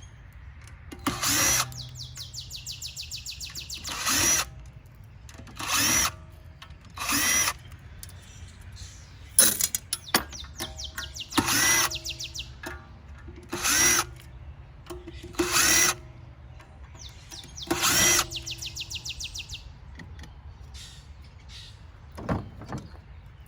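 Cordless drill backing screws out of the water heater's casing in about nine short bursts, roughly every couple of seconds. Some bursts trail off into a quick run of fine ticking.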